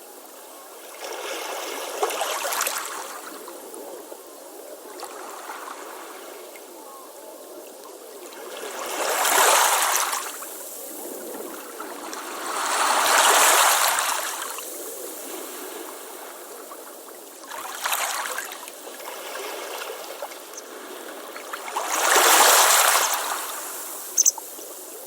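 Ocean waves breaking and washing up a beach: five swells, each building and falling away over one to two seconds, over a steady hiss of moving water. A brief sharp click comes near the end.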